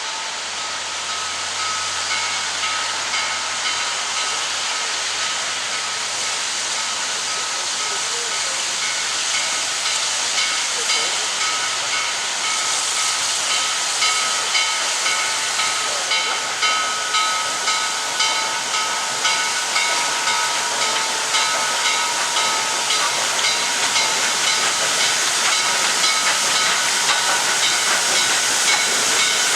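Steam locomotive C&O 1309, a Baldwin 2-6-6-2 Mallet, hissing steam steadily. From about a third of the way in, regular chuffs of about one a second grow slowly louder as the locomotive works at low speed.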